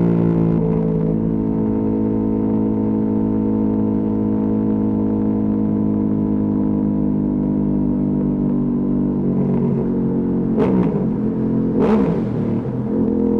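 Ducati Panigale V2S V-twin through a Termignoni exhaust running at a steady low engine speed, then two short, sharp throttle blips near the end before it settles back to the same steady note.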